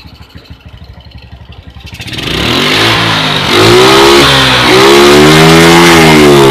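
Suzuki Smash single-cylinder four-stroke motorcycle engine idling, then revved hard from about two seconds in. It climbs in two pulls and holds at high revs without stumbling, running normally now on a new CDI instead of misfiring and dying under throttle.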